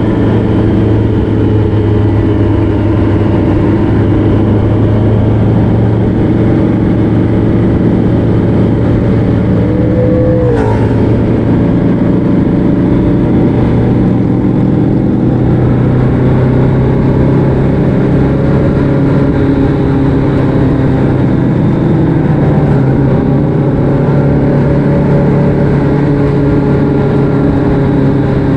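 Motorcycle engine running at a steady road speed, mixed with road and wind noise. About ten seconds in there is a brief drop in pitch.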